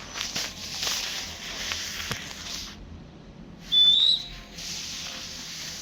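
Barred eagle-owl hissing in two long stretches, with a short high whistle, rising slightly, about four seconds in.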